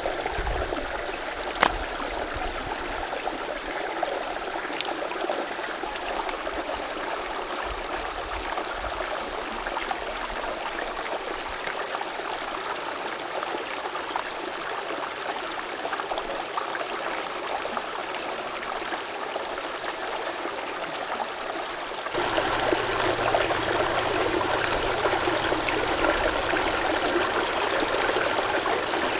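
Mountain stream running with a steady rush of water, with a sharp click about two seconds in. About three-quarters of the way through, the water suddenly becomes louder and fuller.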